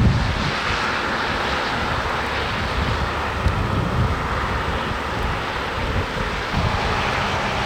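Wind buffeting the microphone in irregular low gusts over a steady hiss of road traffic on a snowy road.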